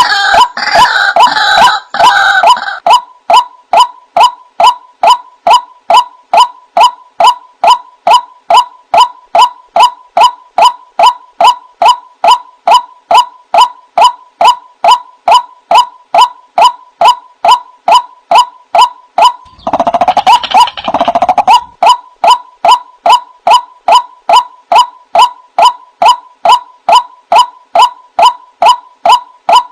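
White-breasted waterhen calls: a loud, evenly repeated call, a little over two a second, with a denser burst of calling over the first couple of seconds and again about twenty seconds in.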